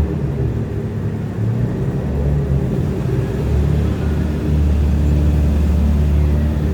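A car engine running with a deep, steady rumble that grows louder about two-thirds of the way through.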